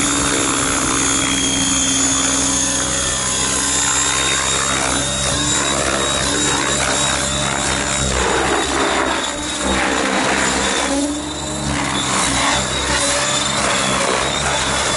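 Align T-Rex 700 radio-controlled helicopter running: a steady rotor drone under a high motor and gear whine, with the pitch shifting up and down.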